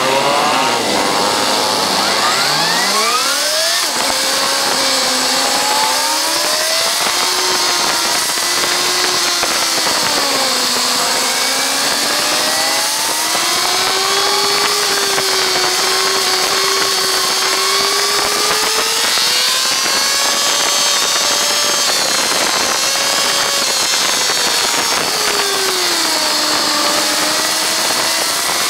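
Kawasaki ZZR1400's inline four-cylinder engine heard from on board, revving hard through the low gears, its pitch sweeping up several times in the first few seconds, then running at track speed with the pitch rising and falling through shifts and corners. A steady rush of wind noise runs under it.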